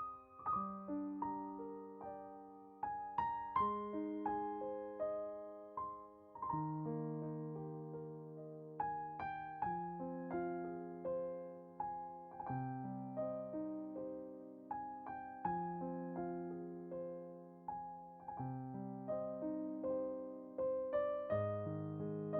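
Solo piano music: a slow, gentle melody over low bass notes, each note struck and left to ring out and fade.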